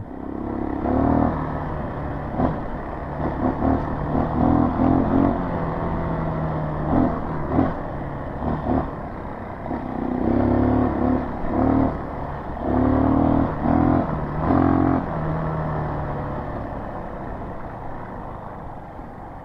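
Dirt bike engine running on a trail ride, the revs rising and falling with the throttle, then easing off to a quieter, steadier note in the last few seconds.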